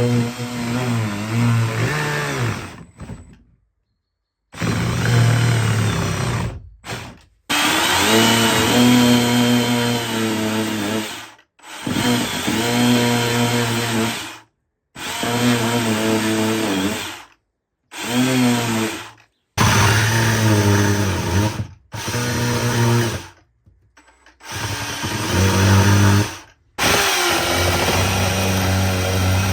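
Handheld electric power tool cutting out rotten wood from a boat's hull planks, running in spells of a few seconds each, its pitch sagging and wavering as it bites into the wood.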